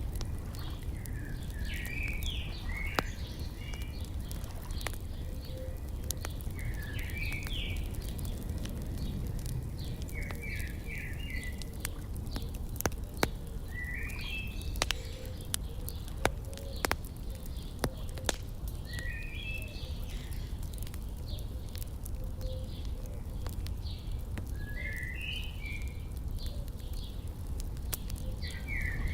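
Wood fire crackling with scattered sharp pops over a low steady rumble, while a songbird sings short chirping phrases every few seconds.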